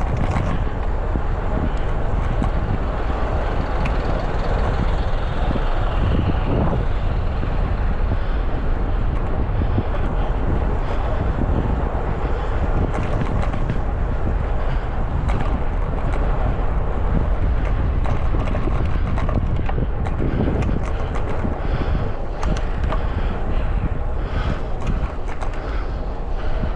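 Wind rushing over a GoPro action camera's microphone on a moving bicycle, a steady low rumble, mixed with passing road traffic.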